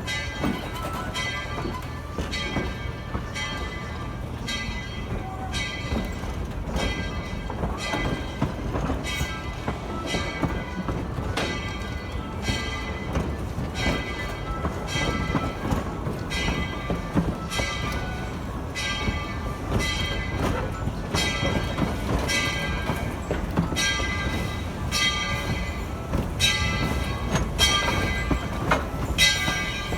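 Steam locomotive bell ringing steadily, about one stroke a second, over the low rumble of the narrow-gauge train running. The bell grows louder near the end.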